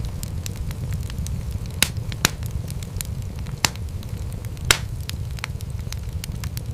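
Wood fire in a fireplace crackling: a steady low rumble with frequent small snaps, and four louder pops spread through the middle.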